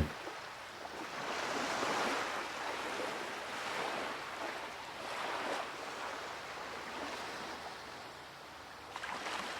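Surf washing onto a beach, a steady hiss that swells and eases in slow surges, strongest about two seconds in and again around the middle.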